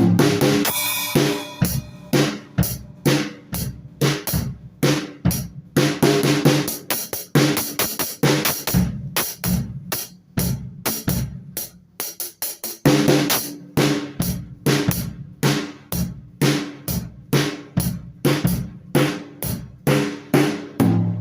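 A drum kit played freely, with bass drum, snare and cymbals struck in a dense stream of hits. A cymbal crash rings out about a second in, and the playing thins out for a few seconds around the middle before the low drums come back.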